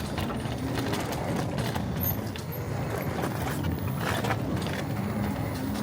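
Steady low rumble of a small vehicle moving along a path, with a faint motor hum.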